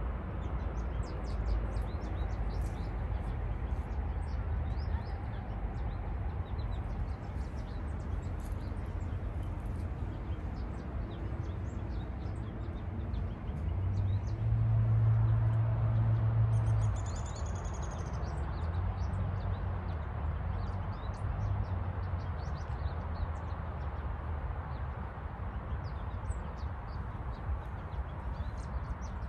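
Small birds chirping again and again over a steady low outdoor rumble. A louder low hum swells up about halfway through, lasts a few seconds, then fades.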